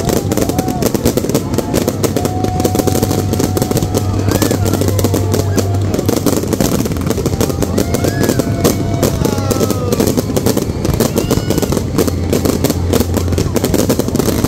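Fireworks display crackling and banging in a rapid, continuous barrage of overlapping bursts, with no let-up.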